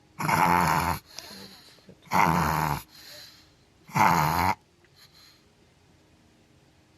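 A pug reverse sneezing: three loud, harsh snorting inhalations about two seconds apart, with fainter rasping between them, stopping after the third. It is a spasm of the throat that the owner puts down to a sudden strong smell.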